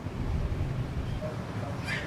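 Low steady background rumble, with a faint brief hiss near the end.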